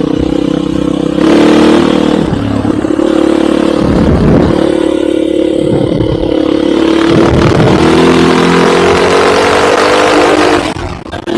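Enduro motorcycle engine running hard under load, its pitch shifting with throttle and climbing gradually in the second half, over steady rushing noise. Near the end the revs drop sharply for a moment and then pick up again.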